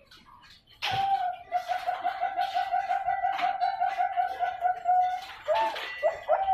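Zebra dove (Bangkok perkutut) singing: a long, fast run of repeated cooing notes starting about a second in, then a brief pause and a second phrase beginning near the end.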